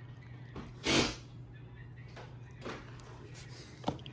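Hunter Preference ceiling fan running with a steady low hum. Two loud breathy whooshes, the first about a second in, and a sharp click near the end sound over it.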